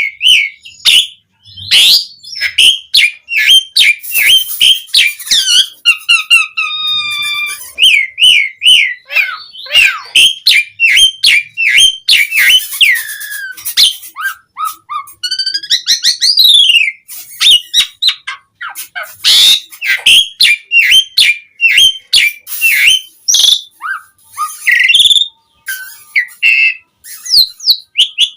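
Asian pied starling (jalak suren) singing a long, varied song of whistled notes, quick rising and falling glides and rapid clicking chatter, broken by short pauses.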